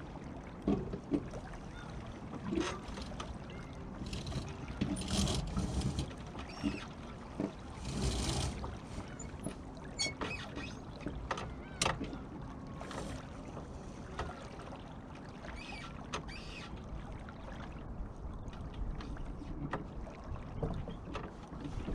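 Water sloshing and rushing around the hull of a small Beneteau First 20 sailboat, with scattered sharp knocks and clicks from the boat's fittings.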